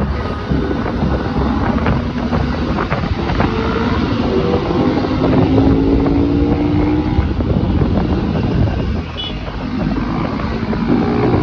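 Motorcycle engines running on the move, with wind noise on the microphone; an engine note climbs gently around the middle.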